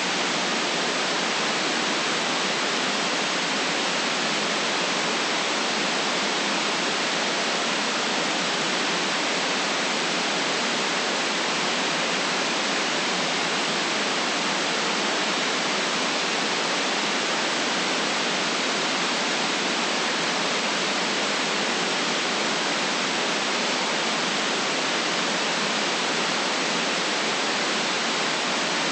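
Steady white noise at a constant level, with little in the deepest bass or the highest treble and no other sound.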